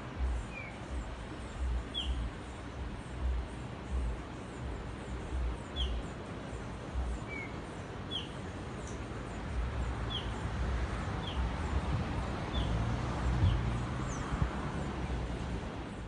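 A bird calling with short, downward-sliding chirps every second or two, with fainter high chirps above. Underneath, wind rumbles irregularly on the microphone over a constant rushing hiss, both stronger in the second half.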